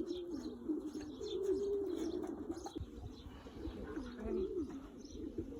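Racing pigeons cooing around the loft: a continuous overlapping run of low, wavering coos.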